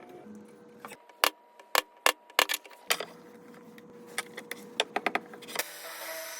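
A quick series of sharp clicks and knocks from hard objects being handled at a woodworking bench, about a dozen in a few seconds. Near the end a steady, high-pitched whirring noise starts, as from a small power tool running.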